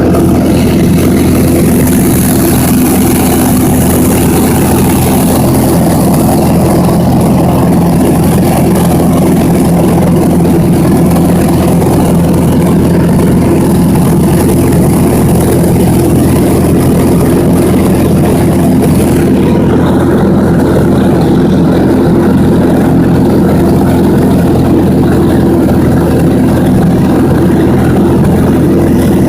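Small propeller airplane's piston engine droning steadily, heard from inside the cabin.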